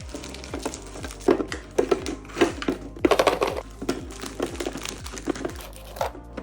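Plastic snack wrappers crinkling and packets knocking as they are handled and set down, over background music with a steady beat of about two bass hits a second.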